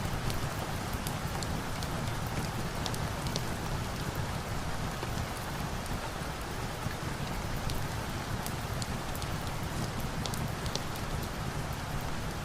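Steady rain, mixed with the scattered small pops and crackles of a log fire.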